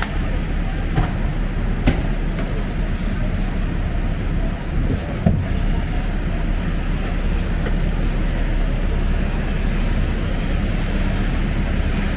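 Steady wind rumbling on the microphone over city street traffic noise during a snowstorm, with a brief sharp click about two seconds in.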